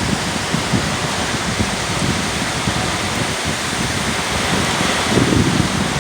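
Hurricane wind blowing hard and steadily, with gusts buffeting the microphone in low, uneven rumbles.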